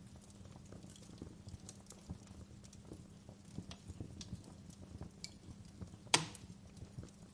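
Wood fire burning in a fireplace: irregular small crackles over a low steady rumble, with one sharp loud pop about six seconds in.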